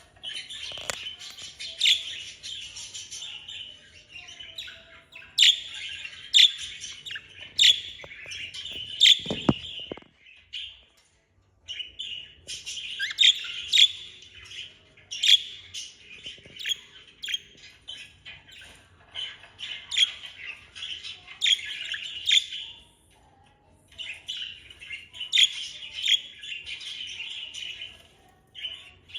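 Budgerigars warbling and chattering in bouts, dotted with sharp high chirps, with short pauses between bouts.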